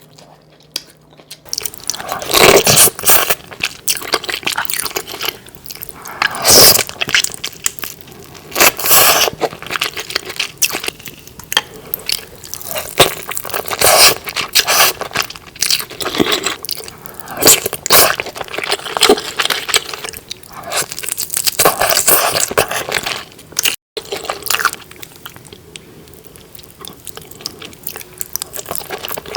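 Close-miked eating of saucy seafood: irregular wet bites, crunches, chewing and scraping clicks, with a momentary break about three-quarters of the way through.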